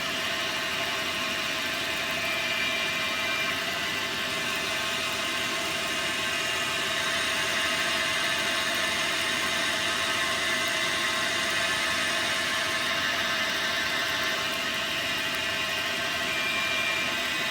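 Dyna Mechtronics DM3000 CNC lathe running while turning a part: a steady mechanical whir with several steady whining tones over a hiss, even throughout.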